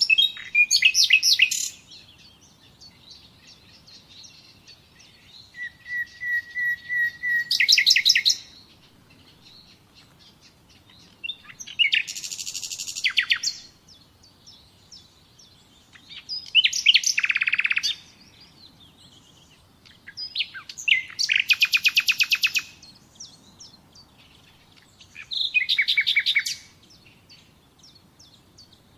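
A songbird singing short phrases of rapid, repeated high notes, six phrases about every four to five seconds, with gaps of faint background hiss between them.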